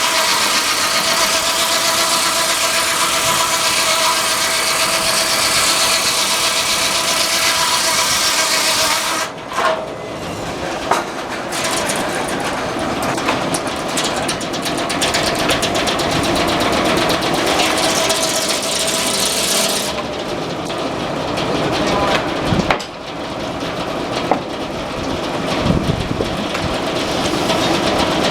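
Frick sawmill's circular head saw cutting through a log: a steady whine over the hiss of sawing that stops about nine seconds in. The mill then runs on more unevenly, with scattered sharp knocks.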